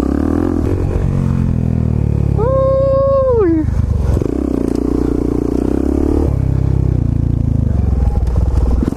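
Single-cylinder motorcycle engine running as the bike is ridden, its note climbing higher about four seconds in and dropping back a couple of seconds later. The rider shouts "woo!" about three seconds in.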